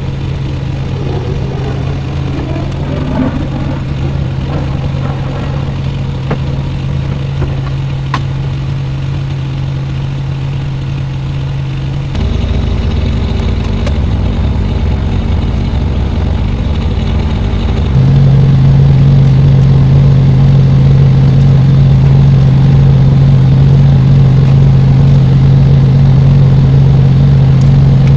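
Semi truck's diesel engine idling steadily, a constant low hum that gets abruptly louder about twelve seconds in and again about eighteen seconds in.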